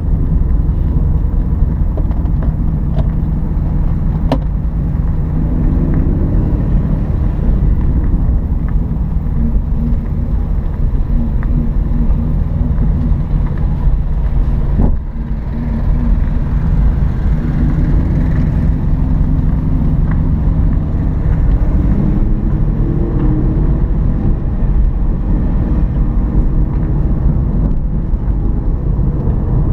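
Ford Mustang Boss 302's V8 engine running under load on a race track, its note rising and falling with the throttle, with a brief drop in loudness about halfway through.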